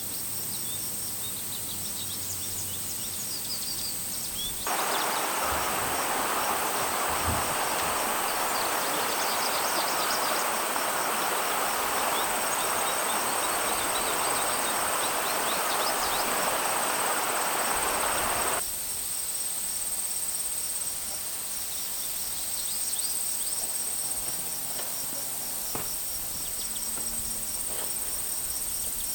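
Outdoor mountain ambience: a steady high hiss with short, high chirps scattered through it. From about five seconds in to about nineteen seconds a louder, even rushing noise comes in and then cuts off abruptly.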